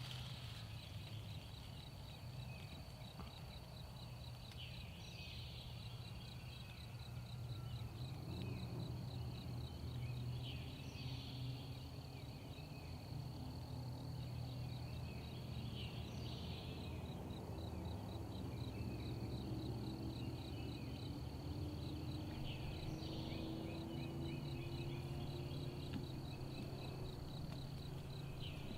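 Woodland dawn ambience: an insect trills steadily in a high, even pulse. A bird calls briefly about every five or six seconds, over a low steady hum.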